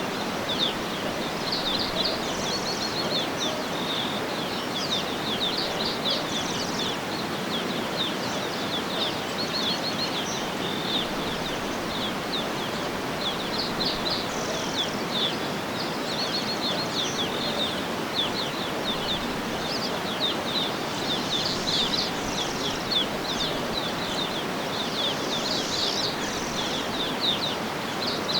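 Birds chirping in quick, continuous high-pitched calls over a steady, even background rush.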